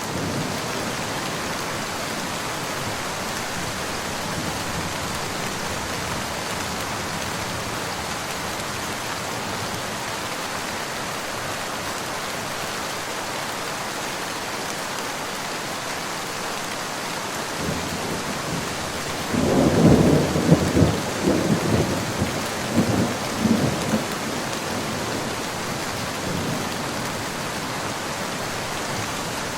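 Steady rain falling, with a roll of thunder about two-thirds of the way through that rumbles in several peaks for a few seconds before fading back into the rain.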